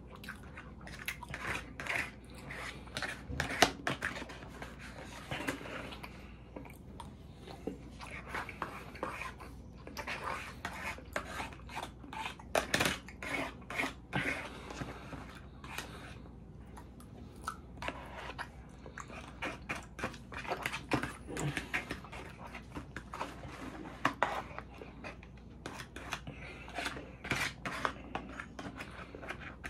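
Close-up chewing and mouth sounds of someone eating, with a plastic fork scraping and tapping in a takeout container: many short, irregular clicks and crackles.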